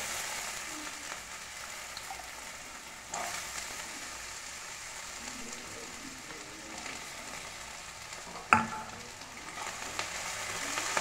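Diced potatoes sizzling steadily in hot oil in a kadai, just added over a panch phoron and dried-chilli tempering. A spatula knocks on the pan twice, a light tap a little after three seconds and a sharper, louder knock about eight and a half seconds in.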